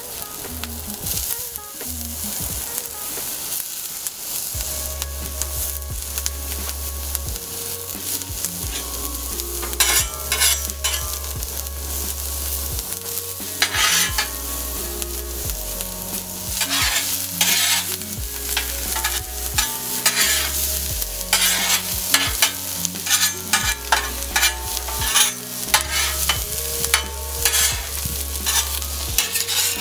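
Diced bell peppers sizzling on the hot steel plate of a Blackstone flat-top griddle. About a third of the way in, a metal spatula starts scraping and knocking on the steel as the peppers are stirred and turned, again and again to the end.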